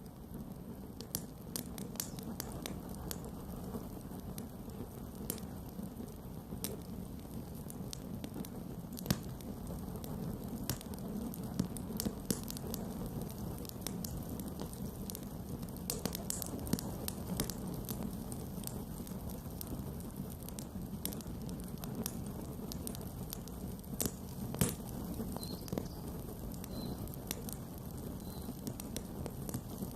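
Campfire burning with a steady low rumble and irregular sharp crackles and pops of burning wood, a few louder snaps among them.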